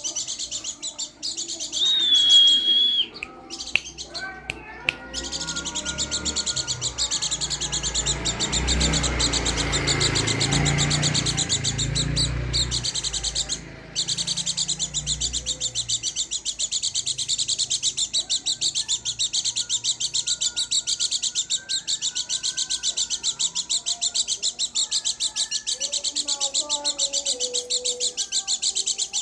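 White-eye (pleci) songbird singing a long, unbroken, fast high-pitched twittering song. A low rumble runs underneath for about ten seconds in the first half.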